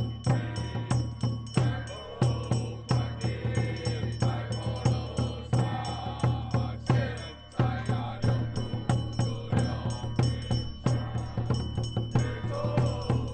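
Taiwanese temple ritual music: chanting over a steady beat of drum and rattling hand percussion, about two strikes a second.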